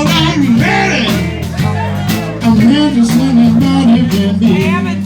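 Live blues-rock band playing an instrumental stretch: electric guitar lines with bends over a steady bass line and drums.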